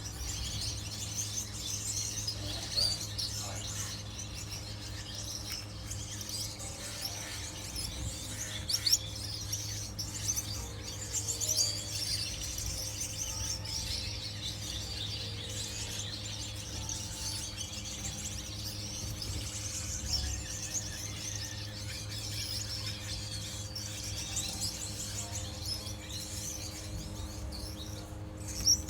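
A flock of Gouldian finches chirping and calling continuously in an aviary, many short high chirps overlapping, over a steady low hum.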